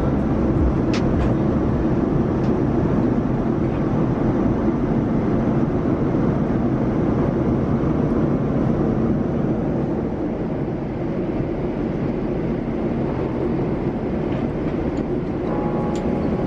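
Steady in-flight cabin noise of a Boeing 787-9 airliner: an even rumble of engines and airflow with no sharp changes.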